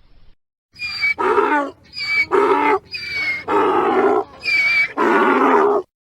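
Donkey braying: four hee-haw cycles, each a high, thin wheezing hee followed by a longer, lower haw. The braying cuts off suddenly near the end.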